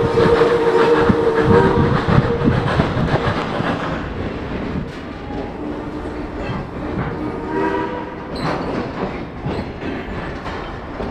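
Train running, heard from a caboose near the rear: a steady rumble with rapid clicking of wheels over the rail joints. The locomotive's whistle sounds in a chord for the first couple of seconds and again briefly later on.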